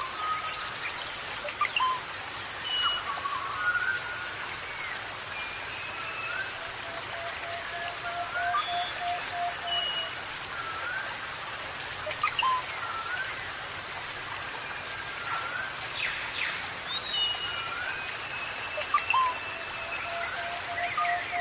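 Steady rain with many birds chirping and whistling over it in short, quick calls, some rising or falling in pitch. A longer, lower held tone sounds twice, in the middle and near the end.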